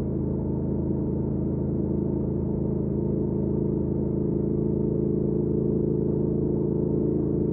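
2019 Triumph Speed Twin's 1200 cc parallel-twin engine through a Weslake Shorty Pro exhaust, running steadily at a constant cruising speed, with no shifts or revving.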